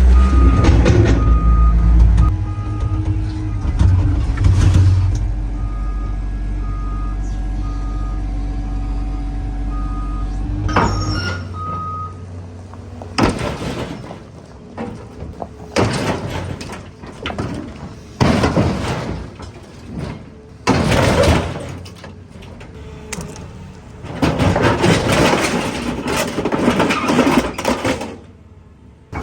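Heavy diesel machine running with its back-up alarm beeping steadily. About eleven seconds in, the engine drone drops away, and a series of loud, rough bursts of noise follows.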